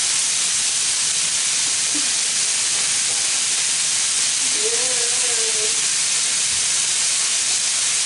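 Chicken breasts frying in oil in a skillet over a gas burner, a steady sizzle.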